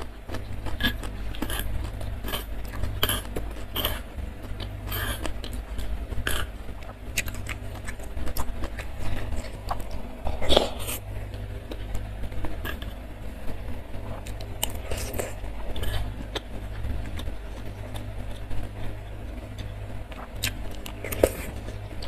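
Close-miked chewing of soft fried tofu soaked in sauce, broken by short clicks and scrapes of a metal spoon against a stone mortar bowl, over a steady low hum.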